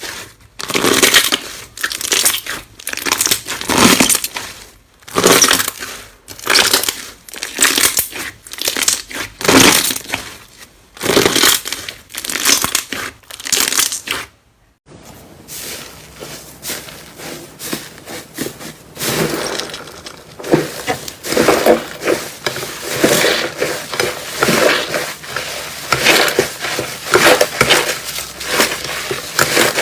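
Slime being squeezed and pressed by hand, with crunchy crackling. In the first half it comes as separate crunches about once a second; after a brief break near the middle it turns into a denser, steadier crackle.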